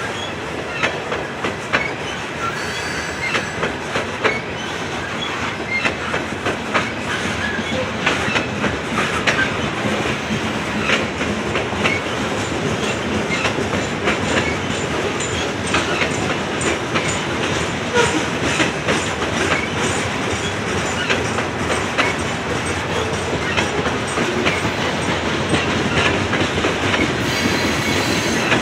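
Norfolk Southern coal train's freight cars rolling past: a steady rumble with rapid clicking and clanking of wheels over the rail, and occasional wheel squeal.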